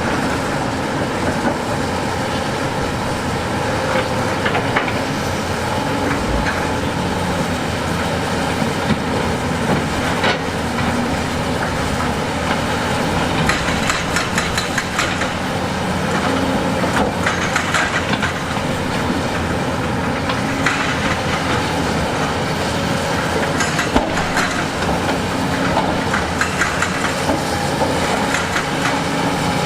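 Heavy diesel construction machinery running steadily, with irregular clanks and rattles of metal and stone over the engine noise, most frequent around the middle.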